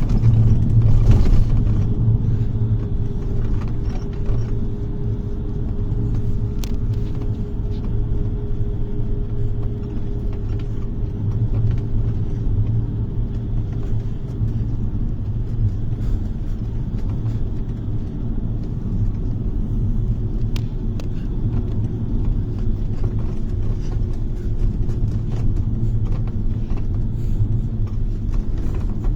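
A bus on the move, heard from inside the cabin: steady low engine and road rumble, with a faint whine slowly dropping in pitch and occasional light rattles.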